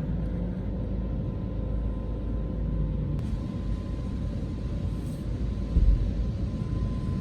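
Low steady rumble of a car idling in a car wash with the machinery running, a faint steady hum above it and one dull thump near the end; no water spray yet.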